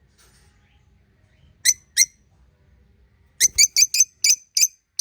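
Pet budgerigars chirping in short, sharp, high-pitched calls: two chirps a little under two seconds in, then a quick run of about seven chirps, several a second, from about three and a half seconds on.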